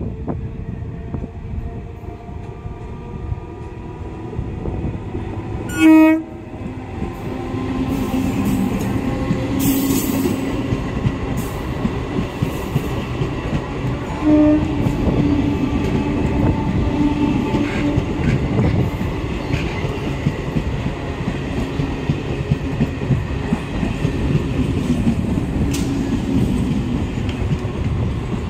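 Electric multiple unit (EMU) suburban train approaching and passing close by. Its horn gives a short, loud blast about six seconds in and a shorter one about eight seconds later, then the steady rumble and wheel clatter of the coaches going past.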